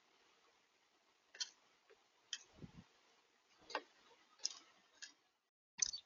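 Small bird at a bird-feeder camera, pecking and shuffling on the feeder: scattered sharp taps and clicks about once a second, with a soft thud about two and a half seconds in, over a faint hiss.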